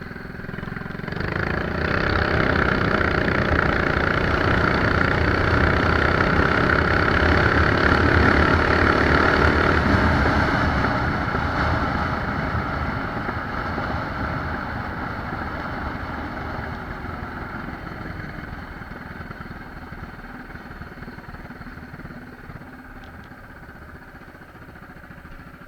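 Mini bike's small single-cylinder engine opened up to full throttle about a second in and held there for several seconds on a speed run. About ten seconds in the throttle is released and the engine drops back toward idle, growing steadily quieter as the bike coasts.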